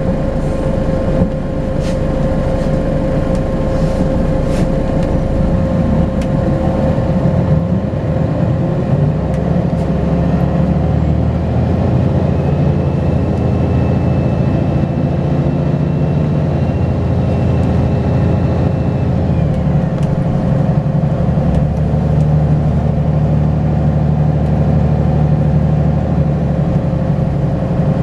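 Turbocharged Volvo B10BLE bus engine running under load with a steady whine throughout. About a third of the way in the engine note builds and a high turbo whistle rises and holds as the bus accelerates, then drops away about two-thirds of the way through.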